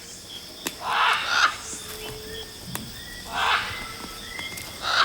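Parrots giving harsh, grating squawks, three of them a second or two apart, over faint steady high-pitched tones.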